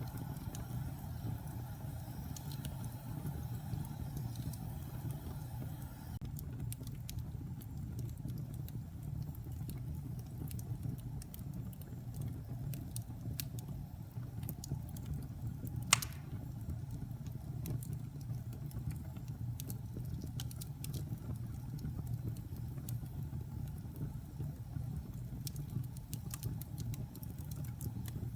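Wood fire burning in a fireplace: a steady low rumble of the flames with scattered small crackles, and one sharp, loud pop about halfway through.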